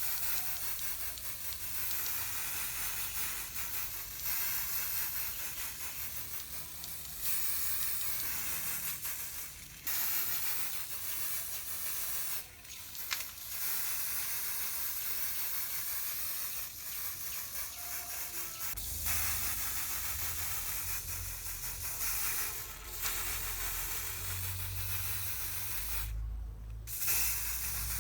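Steady hissing spray noise that stops and starts several times, with a low hum joining it in the second half.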